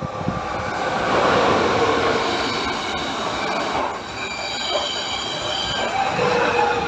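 Renfe Alvia passenger train passing at speed on an electrified main line: a loud rush of wheel, rail and air noise that builds over the first second, with steady high-pitched whining tones above it.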